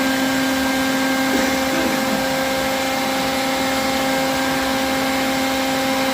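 Steady motor hum holding one even pitch with overtones.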